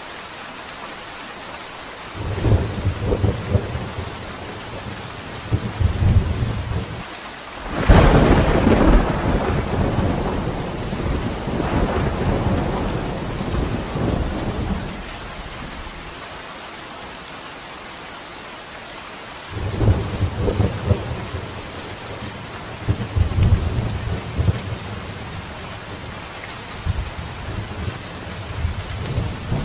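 Steady rain falling, with thunder: low rumbles building a couple of seconds in, a sharp crack about eight seconds in that rolls away over several seconds, then more rumbling in the last third.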